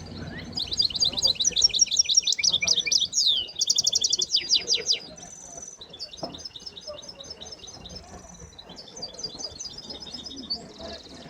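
Caged songbirds singing in fast, high trills and rapid repeated notes, loudest in the first few seconds, then softer phrases.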